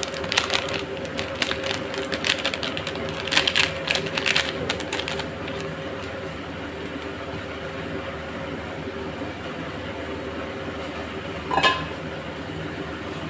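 Quick clatter of hard little clicks, like whole spices such as cardamom pods dropping and rattling onto metal, for about the first five seconds, over a steady hum. One sharper knock comes near the end.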